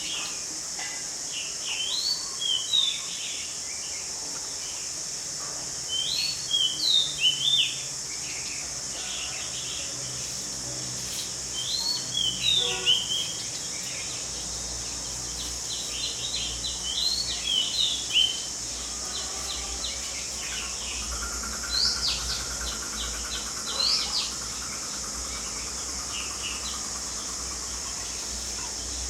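Oriental magpie-robin singing short phrases of rising and falling whistled notes every few seconds, over a steady high insect drone.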